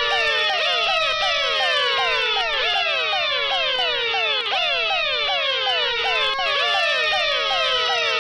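Many electronic alarm and siren sounds layered on top of one another: rapid falling sweeps repeating several times a second over slower rising-and-falling wails. Loud and steady, stopping abruptly at the end.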